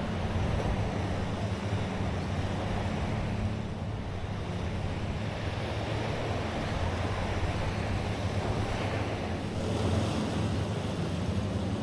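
Waves washing on a beach with wind buffeting the microphone, over a steady low hum.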